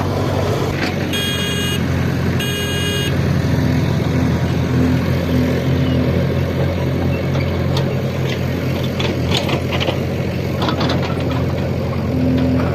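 Heavy machine's engine running steadily, with two short horn beeps about a second in.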